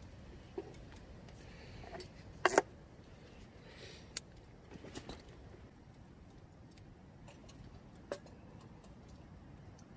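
Scattered light clicks and knocks of hard objects, with a sharp double knock about two and a half seconds in.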